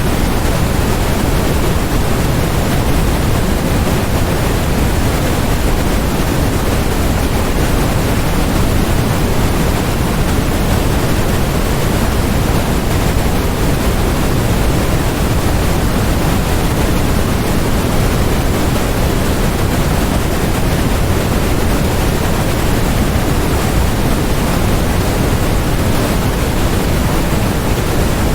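Steady, unchanging electronically generated noise of a focus-noise track: an even hiss with no events, heavier in the low end than at the top.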